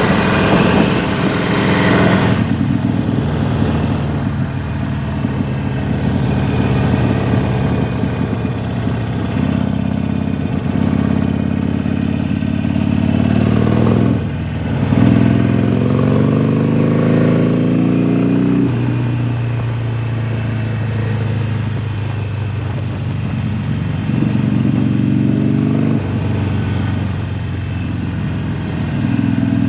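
Harley-Davidson Sportster Forty-Eight's air-cooled 1200 cc V-twin running through a Jekill & Hyde valve exhaust while riding, its pitch stepping up and down with throttle and gear changes. About 14 seconds in the sound dips briefly, then rises steadily in pitch as the bike accelerates, and drops back at a shift about 19 seconds in.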